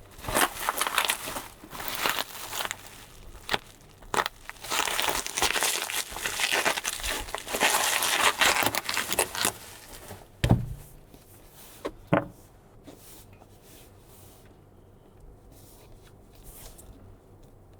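Bubble wrap crinkling and rustling as it is pulled open and unwrapped by hand, dense for about ten seconds. Two dull thumps follow, then quieter handling of a cardboard box with a few small clicks.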